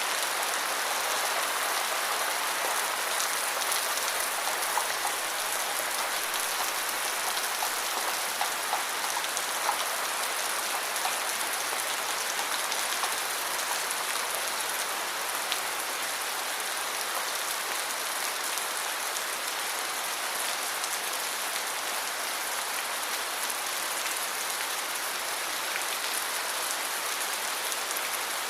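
Steady rain falling and pattering on surfaces, a dense even hiss of drops with scattered small ticks.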